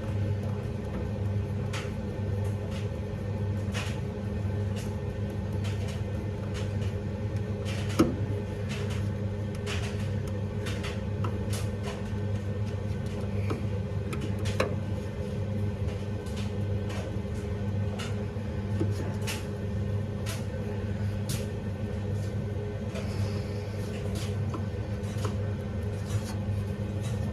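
Scattered clicks and light knocks of parts being handled as a washing machine motor is reassembled after a brush replacement, with one sharper knock about eight seconds in, over a steady low hum.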